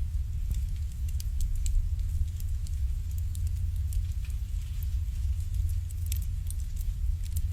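Wood fire burning in an irori hearth: scattered sharp crackles and pops over a steady low rumble.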